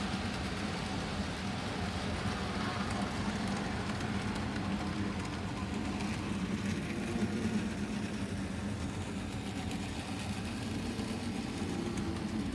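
Arnold N scale U28c model locomotive's electric motor running with a steady hum, the train's wheels rolling on the track as it climbs a steep grade under the load of a long freight train, its wheels slipping.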